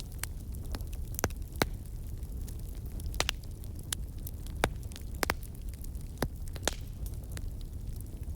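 Wood fire burning in a fireplace: a steady low rumble of the flames with sharp, irregular crackles and pops, one or two a second.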